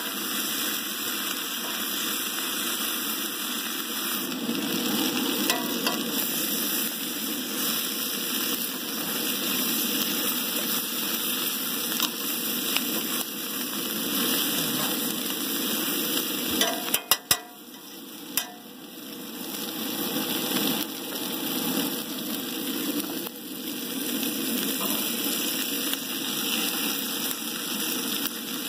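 Sliced onion, potato and green pepper sizzling in bacon fat in a cast iron skillet on a propane camp stove, stirred with a fork. A little past the middle come a few sharp clicks, and the sizzle drops for a couple of seconds before it returns.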